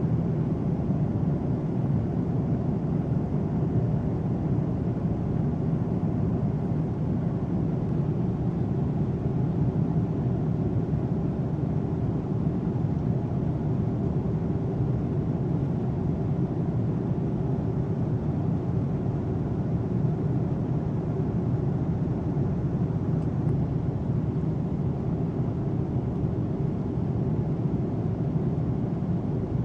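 Steady low rumble of jet aircraft noise, unchanging throughout.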